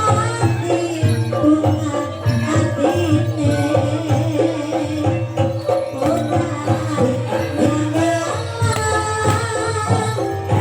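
Live Javanese jaranan-style gamelan accompaniment: dense hand-drumming and percussion under a pitched melodic line, playing continuously.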